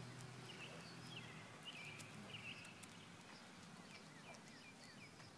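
Quiet outdoor ambience: small birds chirping faintly, short repeated chirps, over a low steady hum that fades within the first couple of seconds.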